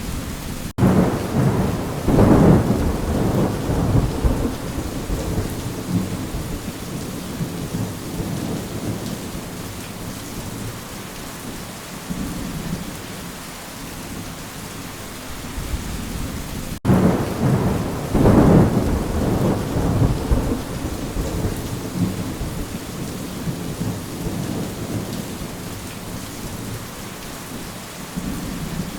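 Thunderstorm ambience: steady rain with two rolls of thunder, one about a second in and another about seventeen seconds in. Each roll starts abruptly, swells, then fades over several seconds.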